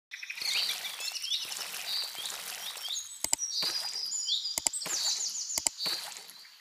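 Small birds chirping and tweeting in quick, repeated high chirps. A few sharp double clicks come about three, four and a half and five and a half seconds in.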